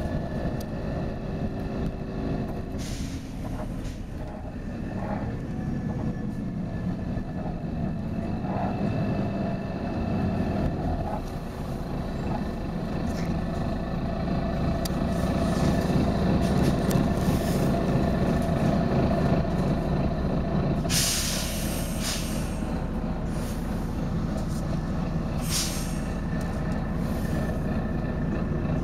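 Volvo B9TL bus's diesel engine running, louder for a few seconds in the middle, with sharp air hisses from its air brakes: a brief one about three seconds in, a loud one lasting over a second about two-thirds through, and a shorter one soon after.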